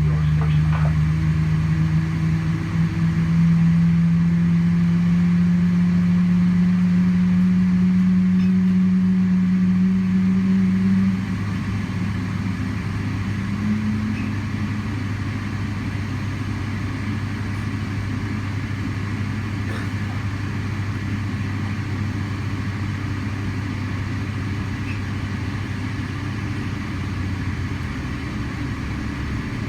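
Cabin noise inside a Boeing 777-300ER: a steady low drone with a strong tone that rises slowly in pitch and stops about a third of the way in, after which the drone is quieter.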